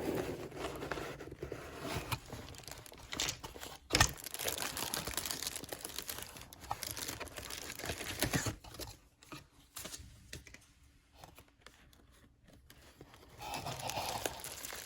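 Parcel packaging being torn open and rustled, with irregular scratching and sharp clicks. It goes quieter for a few seconds after the middle, then the rustling starts again near the end.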